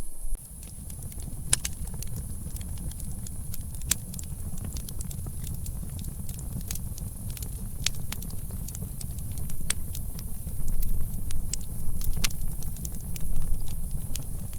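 Campfire crackling: irregular sharp pops and snaps scattered over a steady low rumble.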